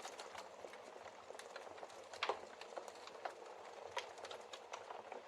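Wood fire in a fireplace crackling, with irregular sharp pops, the loudest a little over two seconds in, over a soft steady hiss.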